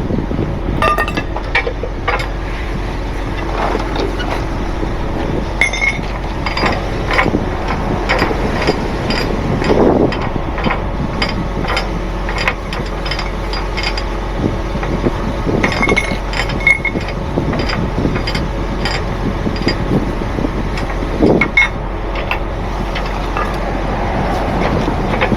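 Truck engine idling steadily under repeated irregular metallic clinks and clanks of chains and rigging hardware being handled.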